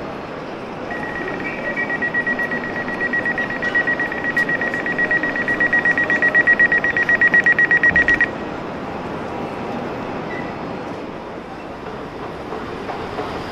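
An electronic warning beeper gives a rapid series of high, pulsing beeps, several a second, for about seven seconds. It grows louder and then cuts off suddenly, over the steady rumble of a railway platform.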